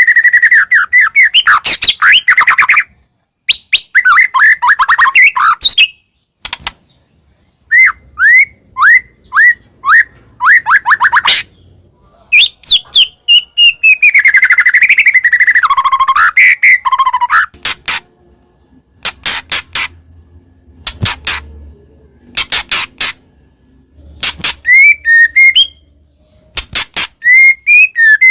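White-rumped shama (murai batu) in full song: loud, varied whistled phrases, runs of quick repeated chirps and sharp clicking notes, in bursts broken by short pauses.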